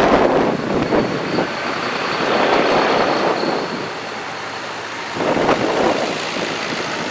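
Vintage tractors running as they drive past, with a louder swell about five and a half seconds in as one comes closer. A faint high whine runs through the first few seconds.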